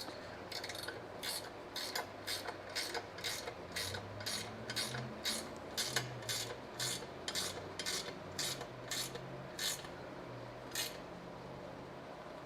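Hand ratchet wrench turning a 14 mm bolt, its pawl rasping on each back-swing about three times a second. The strokes stop about ten seconds in, and there is one more shortly after.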